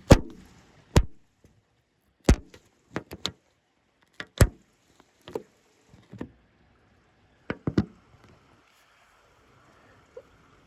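A series of sharp, irregular knocks and taps, about a dozen over eight seconds, with near quiet between them.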